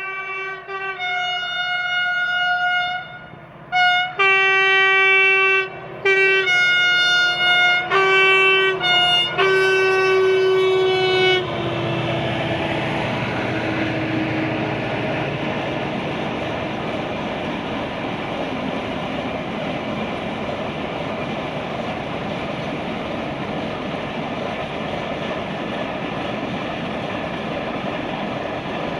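Train horn sounding in a series of about six loud blasts of uneven length over the first eleven seconds. The train then runs past with a steady rumble of wheels on rails.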